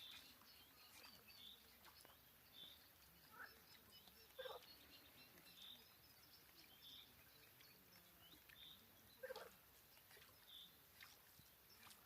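Faint bird calls: a short high chirp repeated about every second or so, with a few louder, lower calls in between.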